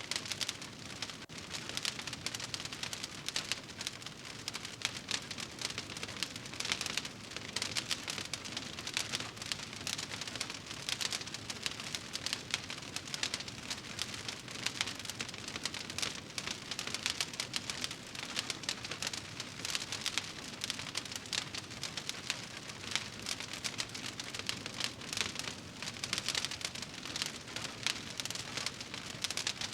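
Fire burning in a fireplace, crackling steadily: a dense run of small pops and snaps over a soft hiss.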